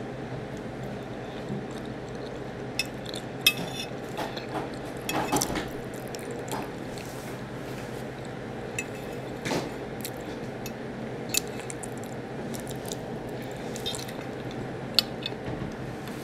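Close-miked wet chewing of barbecue ribs and corn, with a few sharp clicks of a metal fork against the plate, over a steady low background hum.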